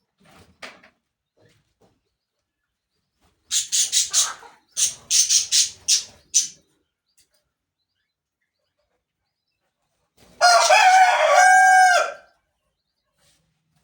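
A rooster crowing once, a long call of nearly two seconds, about ten seconds in. Before it, a quick run of about nine short, sharp calls.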